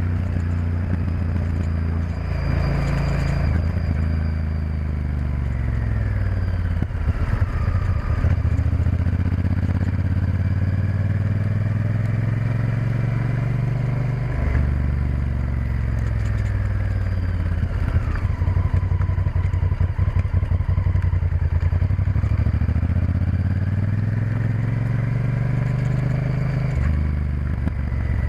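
Honda Varadero XL1000's V-twin engine running under way, its pitch rising and falling repeatedly as the revs change, over a steady rush of wind and road noise.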